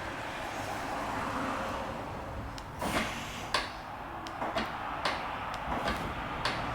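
A run of short mechanical clicks and clunks, about nine over four seconds, over a steady background hum: the 2010 BMW X6's locks and remote-starter kit answering three presses of the key's lock button, the sequence that triggers a remote engine start.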